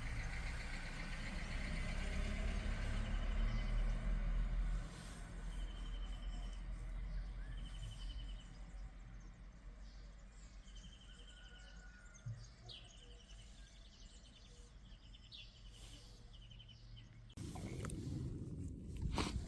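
A small bird repeating short, trilled calls at one steady pitch over quiet outdoor background noise, with a low rumble in the first few seconds. Near the end a louder low rumble starts suddenly.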